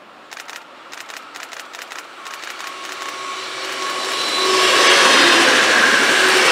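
Red DB Regio two-car multiple unit approaching and passing close by on the rails. A series of sharp clicks comes first, then the rushing of wheels on rails grows louder, at its loudest about five seconds in as the train goes past.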